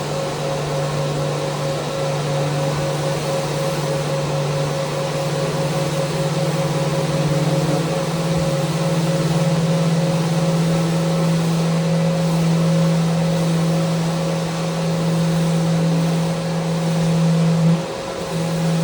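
Electric sander running steadily as it works along a wooden handrail: a continuous motor hum with hiss. Its pitch sags briefly near the end before it picks up again.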